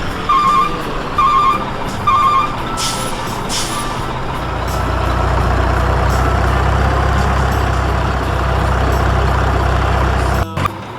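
Truck sound effects: three reversing beeps, then two short air-brake hisses, then a steady low engine rumble that cuts off suddenly near the end.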